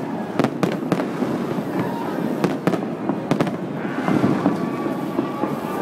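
Fireworks display: a steady rumble and crackle of bursting aerial shells and spark fountains, with a string of sharp bangs scattered through, several close together in the first few seconds.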